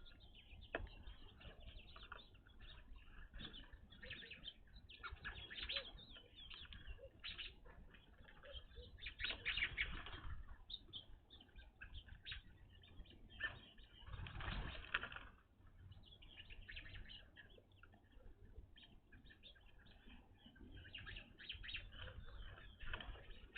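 A flock of evening grosbeaks giving short, rapid chirping calls throughout, with two louder flurries of wing flutter and calling, about nine and fourteen seconds in.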